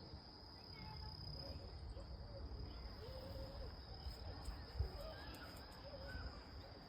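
Faint outdoor ambience: a low rumble like wind on the microphone, a steady thin high-pitched tone, and faint short wavering calls or distant voices now and then.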